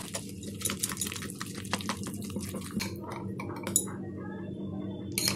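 Batter being stirred vigorously in a mixing bowl: quick clicks and taps of the utensil against the bowl with a wet stirring sound, busiest in the first three seconds and sparser after.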